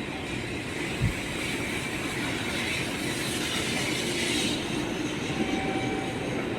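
Japanese bullet train (Shinkansen) running at speed: a steady rumble and rush of rail and air noise. There is a single low thump about a second in, and a hiss swells through the middle and cuts off suddenly at about four and a half seconds.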